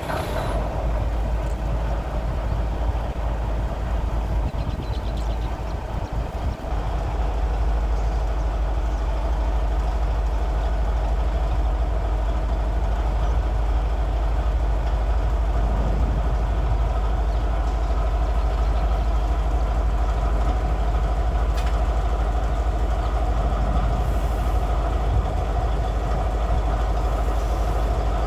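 Former Emu Bay Railway 11 class diesel locomotive running steadily under a strong low rumble, its engine giving a steady drone.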